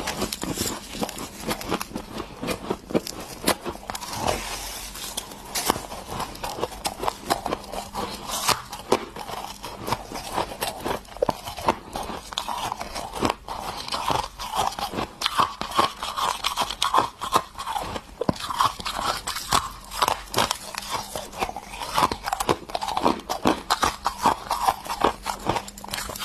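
Close-up crunching of ice being bitten and chewed, a dense run of irregular crackling crunches.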